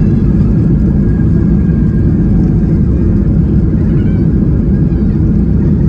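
Boeing 737-800 cabin noise heard from inside the cabin: a loud, steady low rumble of the engines and airflow.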